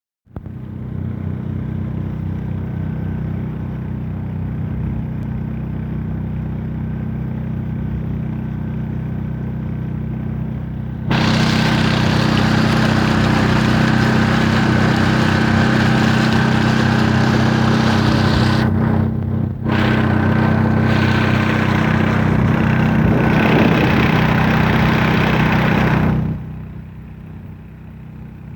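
Boat engine running with a steady hum. About 11 seconds in, a loud rushing hiss comes in over it, breaks off briefly near 19 seconds and stops about 26 seconds in, leaving the engine quieter.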